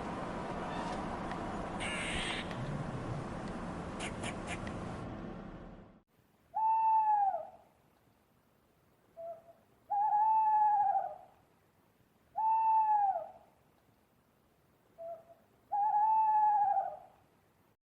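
A steady noisy background that fades out about six seconds in, then an owl hooting: four long, slightly falling hoots about three seconds apart, the second and fourth each led by a short note.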